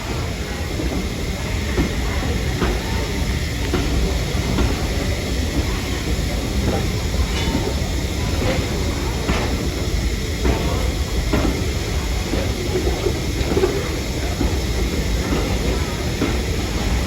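Heritage train running along the track: a steady low rumble with irregular clicks of the wheels passing over rail joints.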